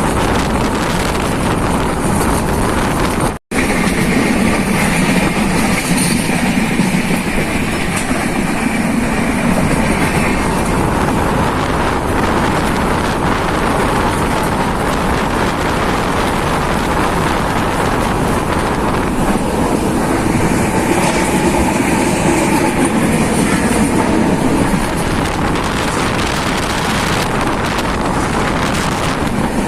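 Passenger express train running along the track, heard from on board: a steady rumble of the carriage and wheels on the rails. The sound cuts out completely for a moment about three and a half seconds in.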